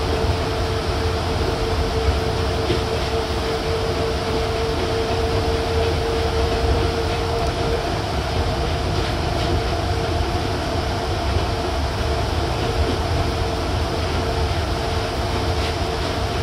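Nippori-Toneri Liner 330-series rubber-tyred guideway train running at steady speed, heard from inside the car. There is a constant low rumble and a steady whine from its Mitsubishi IGBT-VVVF drive, the whine fading somewhat about halfway through. A few faint knocks come through as well.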